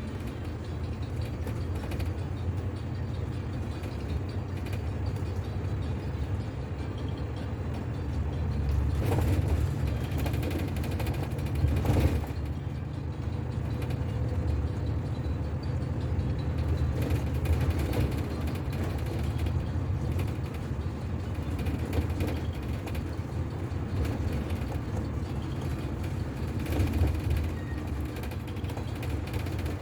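Inside a moving city bus: a steady low rumble of engine and road, with the cabin's fittings creaking and rattling and a few sharper knocks, the loudest about twelve seconds in.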